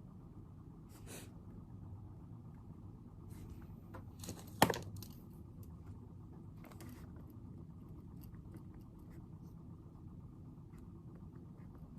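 Desk sounds of someone studying over a steady low room hum: a few brief rustles of paper or handled objects, and one sharp click or knock about four and a half seconds in.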